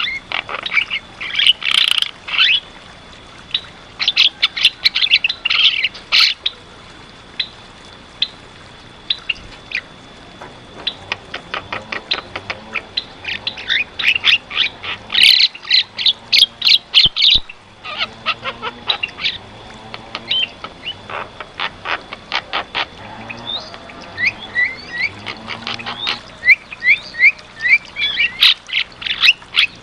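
Javan myna singing vigorously: dense runs of harsh clicking chatter and squawks, broken by short pauses, with a run of short rising whistles near the end.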